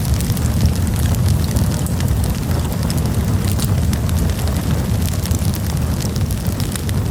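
Campfire burning: dense crackling and popping over a steady low rumble.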